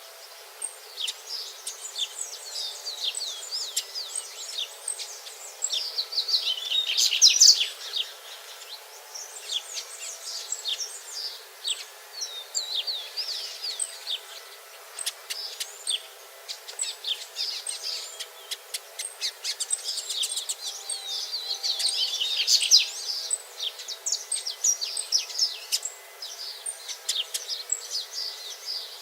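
Double-collared seedeaters (coleiros) chirping and calling in quick, high notes, with two denser, louder bursts of song, about seven seconds in and again around twenty to twenty-three seconds in.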